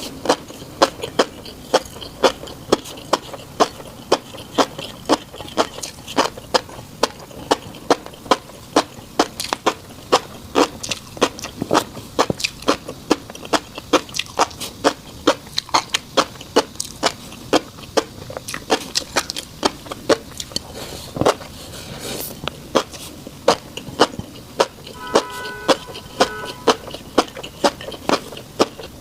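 Close-miked eating of fish roe: a steady run of sharp, wet clicks and pops, about two or three a second, as the roe is chewed. A brief pitched tone sounds for about a second near the end.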